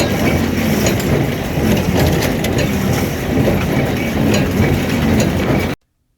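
John Deere 336 small square baler running behind its tractor, crunching and clattering as it packs hay, over the drone of the tractor engine. The sound cuts off suddenly near the end.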